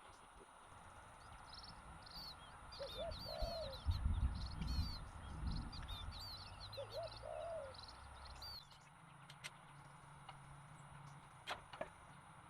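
Wild birds chirping in quick, high, repeated calls, with a lower short call heard twice. A loud low rumble runs under the calls in the middle.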